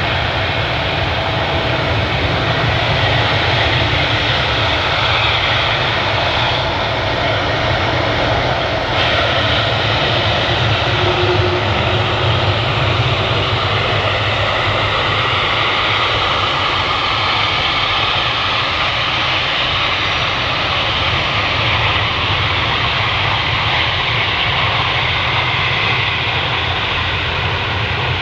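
Boeing 757's Rolls-Royce RB211-535 turbofan engines running at a steady power as the airliner taxis, a continuous loud jet noise.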